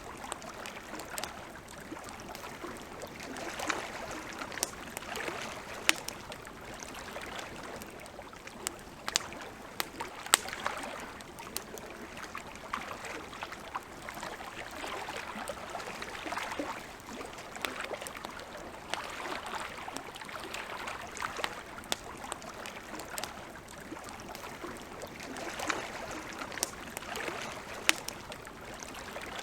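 Wood campfire crackling, with frequent sharp pops scattered through it, over small waves lapping at the shore in slow swells every couple of seconds.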